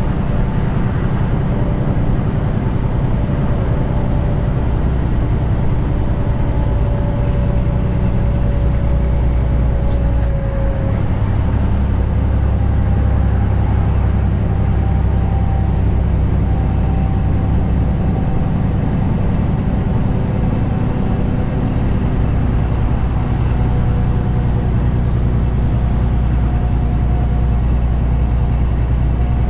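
Detroit DD15 diesel engine of a loaded 2021 Western Star 4900 semi truck running steadily under way, a constant low drone whose pitch shifts briefly about ten seconds in.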